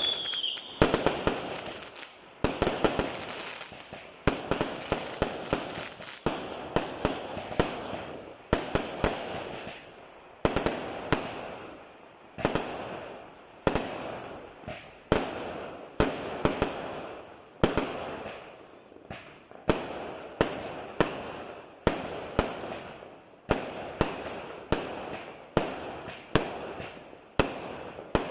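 Aerial fireworks going off in quick succession: a sharp bang every second or two, sometimes several close together, each trailing off in crackle.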